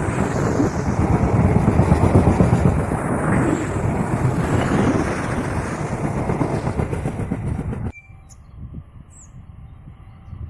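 A train passing close by: the dense rumble and rattle of its wheels and carriages on the rails, which cuts off suddenly about eight seconds in, leaving only faint high chirps.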